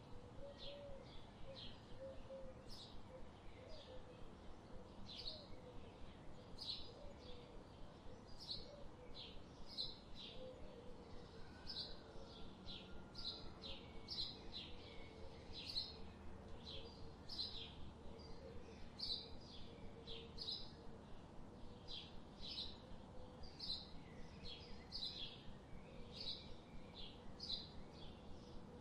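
Songbirds chirping in a forest: a steady run of short high chirps, about two a second, with a fainter low warbling call underneath.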